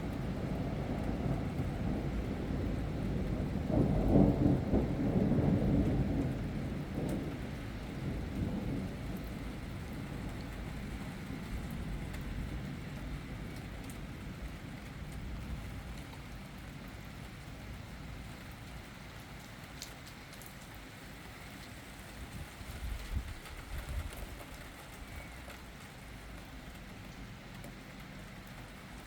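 Thunder rumbling, loudest about four seconds in and then slowly rolling away, over steady rain. A smaller low rumble comes near the end.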